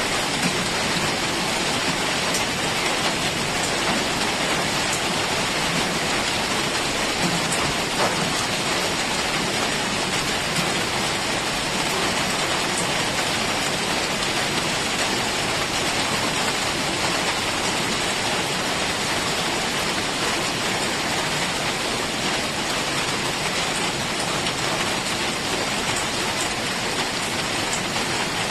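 Heavy rain falling steadily in a forest, an even hiss with scattered drop ticks.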